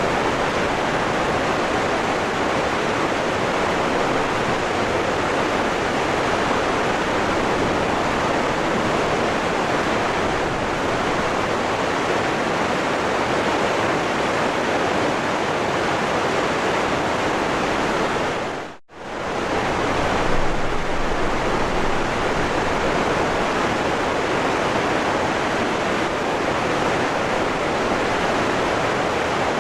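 Steady rushing of a waterfall. About two-thirds of the way through, the sound dips briefly almost to silence and comes straight back.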